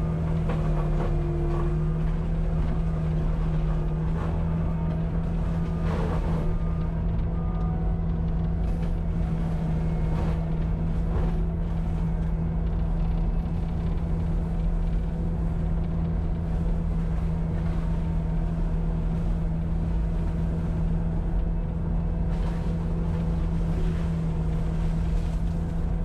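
Cat 259D compact track loader's diesel engine running steadily at constant high speed, a continuous unchanging drone.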